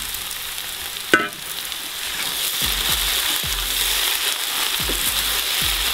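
Potatoes and cabbage sizzling in a hot cast-iron kazan. The sizzle grows louder about two seconds in as a wooden spatula stirs the food, with a few soft knocks from the stirring and one brief sharp sound about a second in.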